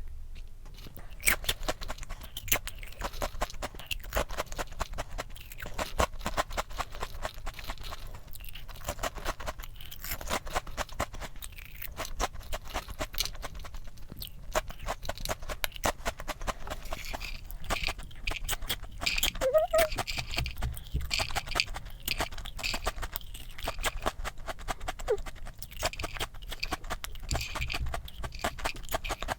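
Close-miked crunching and chewing of crispy packaged snacks, many sharp crunches in quick, irregular succession.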